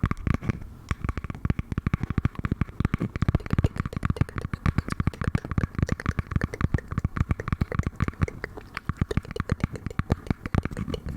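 Rapid, continuous tapping and clicking on an object close to the microphone, many taps a second, as an ASMR trigger.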